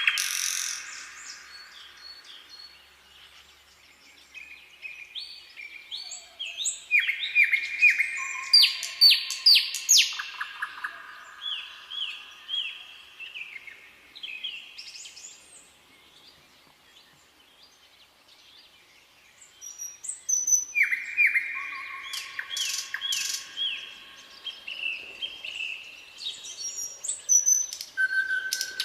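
Songbirds singing, several overlapping phrases of quick repeated chirps and trills, in two busy stretches with a quieter lull in the middle.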